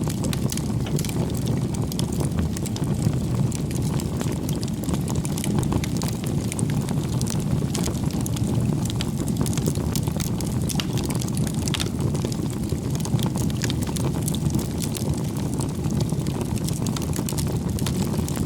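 Wood campfire burning: a steady low rush of the flames with frequent small crackles and pops from the burning firewood.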